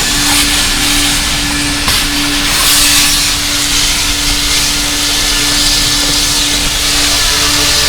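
Coin-operated car-wash vacuum running, a steady motor hum under the rushing hiss of air drawn through the hose. The hiss swells for a moment about three seconds in as the nozzle moves.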